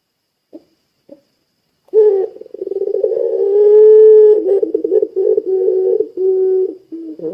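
Puter pelung dove cooing: after two faint clicks, a long drawn-out coo begins about two seconds in with a held low note, followed by a run of shorter broken coos.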